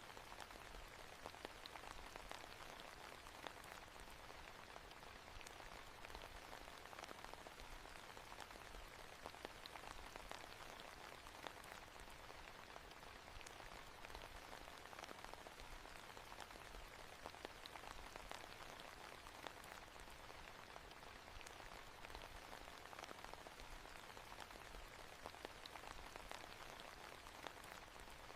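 Soft, steady rain: an even hiss with scattered ticks of single drops.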